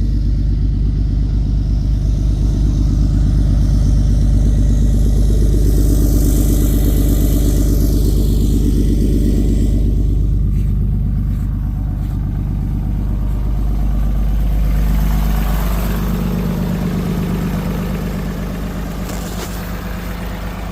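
A vehicle engine running steadily with a deep, low hum; its note shifts and it grows slightly quieter about two-thirds of the way through.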